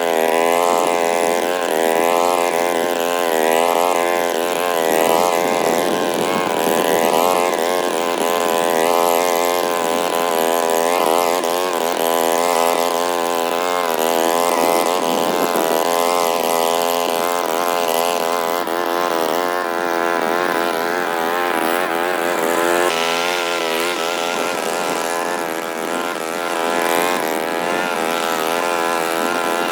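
Walk-behind lawn mower's small petrol engine running continuously, its pitch wavering up and down about once a second.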